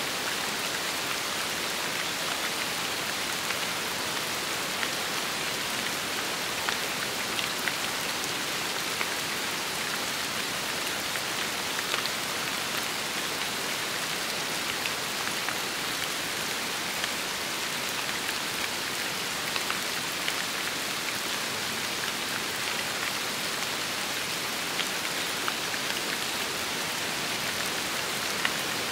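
Steady rain falling: an even hiss with scattered single drops ticking sharply on a surface.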